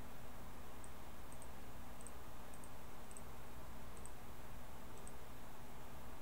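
Faint, irregular clicks, single or in quick pairs, about one or two a second, over a steady low background hum and hiss.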